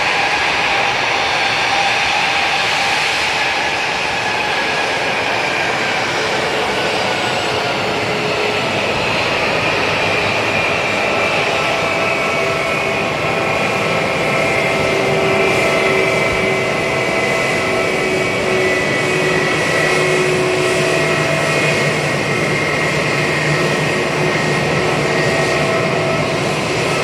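Jet airliner engines running, a steady loud rush with several whining tones that drift slowly downward in pitch.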